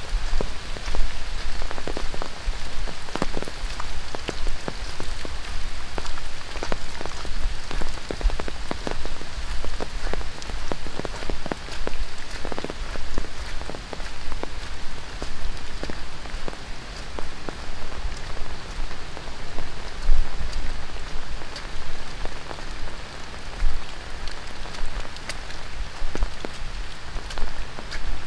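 Heavy tropical rain falling steadily on rainforest leaves and a wet gravel trail, with many sharp individual drops striking close by.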